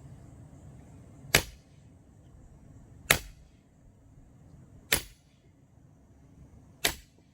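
Axe splitting firewood: four sharp chops of the blade into the wood, evenly spaced about two seconds apart.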